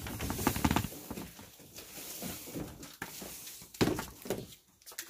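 Items and packaging being handled: a burst of rustling and clicking for about a second, then quieter handling noise, with a single sharp thunk about four seconds in.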